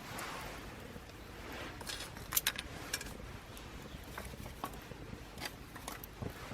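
Small wood fire crackling in a homemade aluminium mini wood stove: sparse sharp pops and clicks over a faint hiss, a cluster of louder pops a couple of seconds in.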